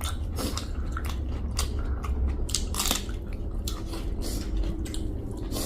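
Close-up eating sounds: chewing and mouth smacks over pork and rayo saag, with irregular sharp clicks throughout.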